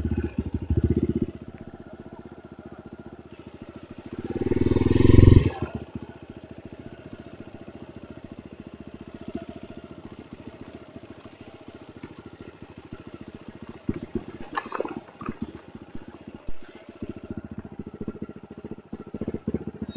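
Enduro motorcycle engine running at low revs, with one short rev-up about four seconds in. A few short knocks come near the end.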